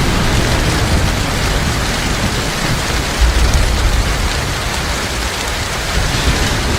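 Heavy rain falling steadily, a dense even hiss, with a low rumble underneath that swells and eases.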